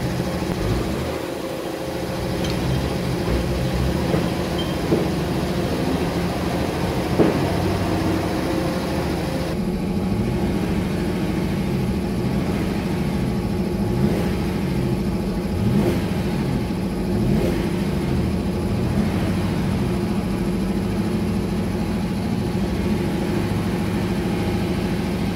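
A 2014 Holden Commodore's 3.6-litre V6 running steadily at a raised speed, with the tachometer near 3,000 rpm. About ten seconds in, the sound becomes duller as it is heard from inside the cabin instead of the open engine bay.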